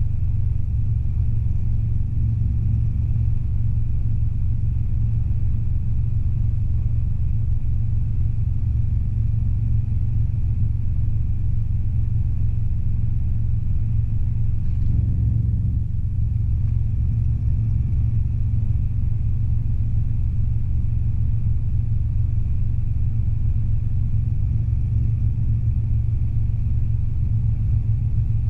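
Steady low drone inside the cabin of a Robinson R22 helicopter in level cruising flight: its four-cylinder Lycoming piston engine and rotor running at a constant pitch and level.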